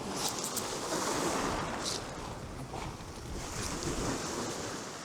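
Strong wind buffeting the microphone over surf breaking on the beach, swelling about a second in, with a few short high hisses.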